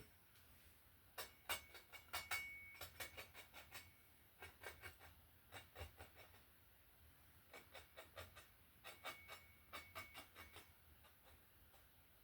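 Faint, quick light taps and clicks of painting tools against the canvas and palette as sticks and twigs are painted in, coming in three bursts with pauses between.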